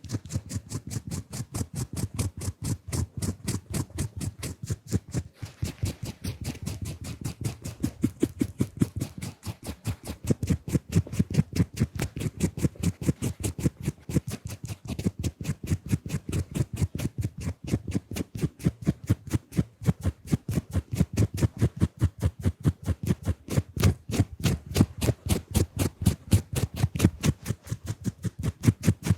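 Fast, rhythmic scratchy strokes of a drawing tool rubbed and tapped directly on the camera lens and microphone, close and dry, for ASMR face painting.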